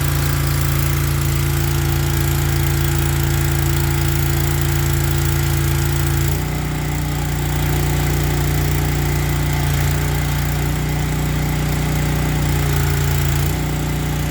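Small petrol engine of a pressure washer running steadily. Its note changes about six seconds in, as the water is turned on and the pump takes up load.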